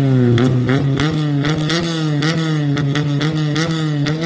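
Honda S2000's four-cylinder VTEC engine held against the rev limiter, its high steady note cut briefly about three times a second as it bounces off the limiter, while the exhaust spits out water.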